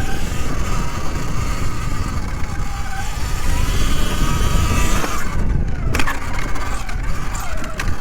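Sur Ron electric dirt bike being ridden: the motor's whine rises and falls with the throttle over a heavy low wind rumble on the camera microphone, with a sharp knock about six seconds in.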